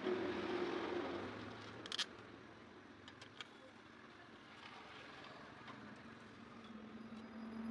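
A motor vehicle's engine running: a burst of noise that starts suddenly and fades over about two seconds, then a low steady hum that grows louder near the end.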